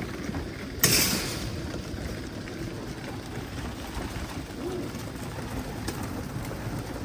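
Racing pigeons cooing, with a brief loud rustle about a second in as birds come in through the loft trap.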